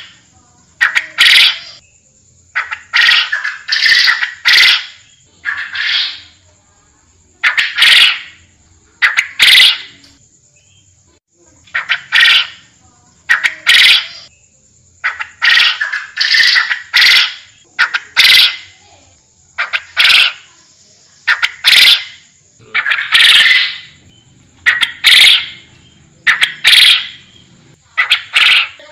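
Forest quail (puyuh hutan) calling: short, loud notes repeated every second or two, often in quick pairs or runs of three.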